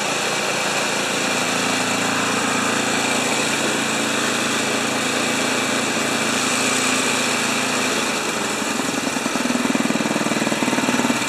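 Snowblower's small gas engine running steadily. About eight seconds in, its note changes and the running turns uneven and pulsing.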